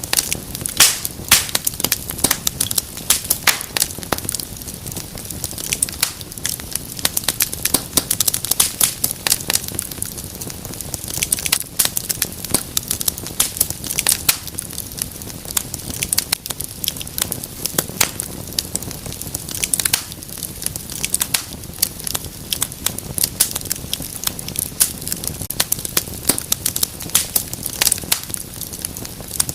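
Fire in a fireplace crackling steadily, with many irregular sharp pops and snaps a second over a low, steady hiss.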